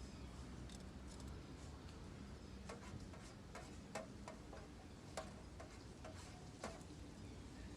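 A series of light, irregular clicks and taps, about a dozen, bunched in the middle few seconds, some with a short ring, over a faint steady background hum.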